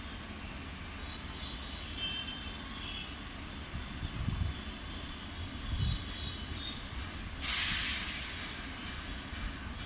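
WAP-7 electric locomotive and its coaches rumbling steadily as the train approaches, with two dull thumps partway through. About seven and a half seconds in, a loud burst of air hisses from the train for about a second and a half.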